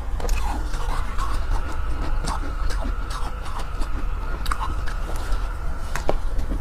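Soft ice being bitten and chewed: a run of short, crisp crunching clicks, over a steady low rumble.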